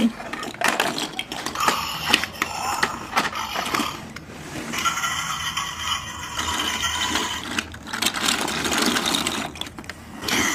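Plastic toy trucks and tiny toy cars being handled and played with: a run of plastic clicks and knocks, with a denser rattling stretch in the middle.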